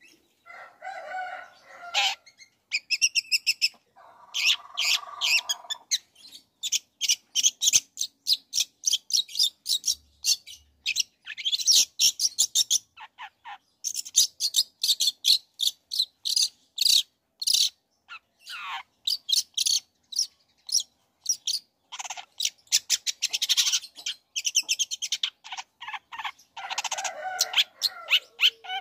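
Long-tailed shrike (cendet) singing a fast, varied song. Rapid runs of sharp, high chattering notes alternate with a few lower phrases near the start, a few seconds in, and near the end.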